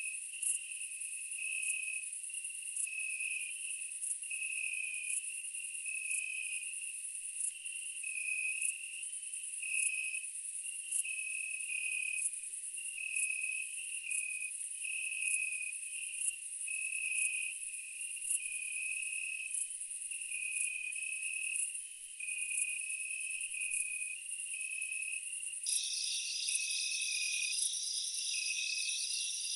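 Insects chirping steadily in a repeating, pulsing pattern, with a second, higher buzzing trill joining near the end.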